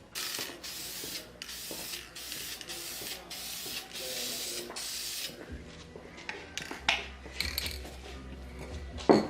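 Aerosol spray-paint can spraying in a string of short hissing bursts, about eight of them, coating the power steering rack; the spraying stops about halfway through. A few clicks follow, and then a sharp knock near the end.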